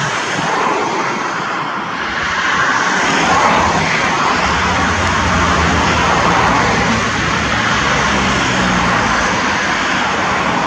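Airbus A320 airliner's twin jet engines running with a steady noise, a deep rumble building about three seconds in and holding.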